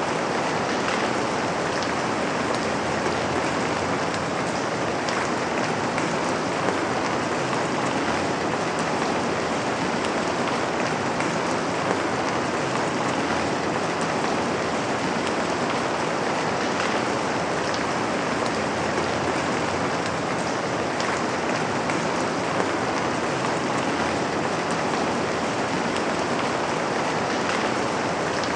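Steady rain falling on a window, an even dense patter with a few sharper drop taps now and then.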